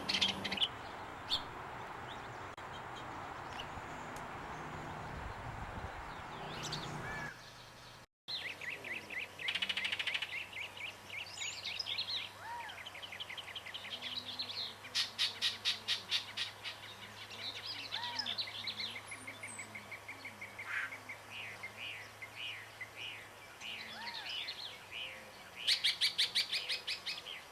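Wild birds calling and singing: short chirps and rapid trills from several birds. A steady hiss lies under the first part, and the sound cuts out briefly about eight seconds in before a different recording of bird song begins.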